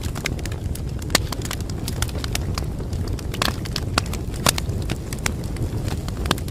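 Wood fire crackling: frequent irregular sharp pops and snaps over a steady low rumble of the flames, with a few louder pops.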